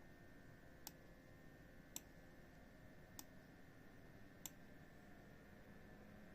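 Palit RTX 5060 Dual graphics card fans crackling: four sharp, irregular clicks about a second apart over a faint steady fan whir.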